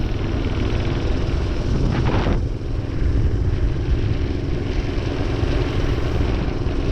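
Minibike's small engine running steadily under way at its low top speed, heard from the rider's seat.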